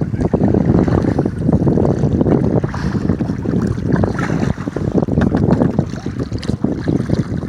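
Steady wind buffeting the microphone, with water lapping and sloshing around a kayak on choppy water.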